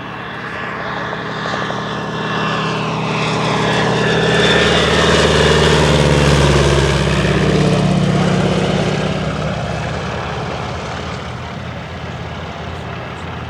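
A North American T-6 'Super Six' flying past, its geared Pratt & Whitney R-1340 radial engine and three-blade propeller growing louder to a peak about six seconds in, then fading away.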